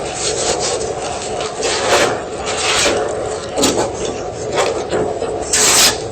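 A block of gym chalk being crunched and crumbled: a run of uneven gritty crunches and scrapes, about one or two a second, the loudest near the end.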